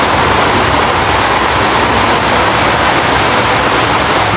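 Heavy rain pouring down during a rainstorm: a loud, steady, even hiss with no breaks.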